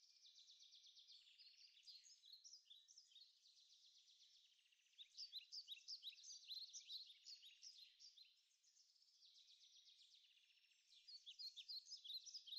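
Near silence with faint birdsong: quick high chirps and trills in stretches.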